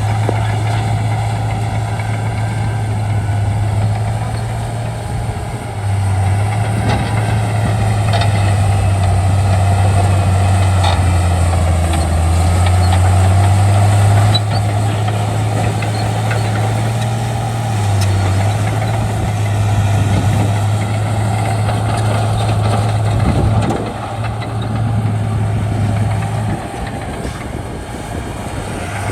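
Diesel engine of a Shantui D95 bulldozer working, a steady low drone whose pitch shifts slightly with load several times, easing off somewhat near the end.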